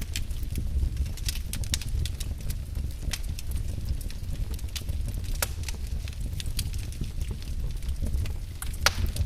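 Wood fire burning in a fireplace: irregular sharp crackles and pops over a low steady rumble of the flames, with one louder pop near the end.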